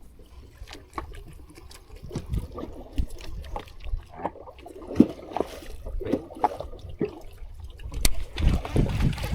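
Water sloshing and gurgling in short irregular splashes, with a sharp knock about eight seconds in and the water growing louder near the end.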